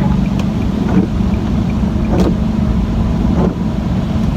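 Nissan 370Z's 3.7-litre V6 with its muffler deleted, running loud and steady under way, with a few short pops from the exhaust.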